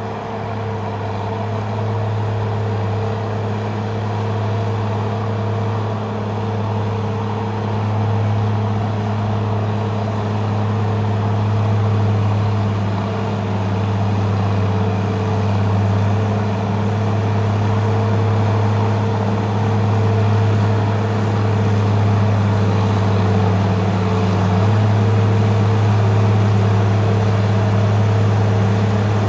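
Heavy diesel engine of logging equipment running steadily at a constant speed, its note shifting slightly near the end.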